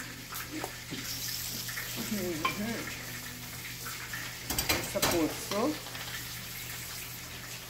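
Chicken breasts sizzling in hot oil in a pot, with a quick clatter of cookware about two-thirds of the way through and a couple of short murmured hums from the cook.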